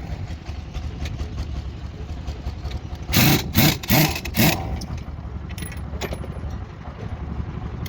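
An engine running steadily with a low rumble, broken by a few short loud bursts between about three and four and a half seconds in.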